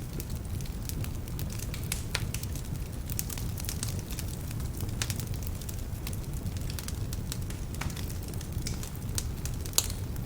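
Wood fire burning in a fireplace: a steady low rumble of flame with frequent sharp, irregular crackles and pops from the burning logs, some of them damp, and one louder pop near the end.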